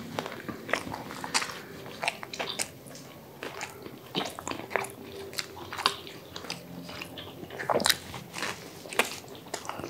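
Two people biting into and chewing malai boti pizza close to a clip-on microphone, with irregular wet mouth clicks and smacks.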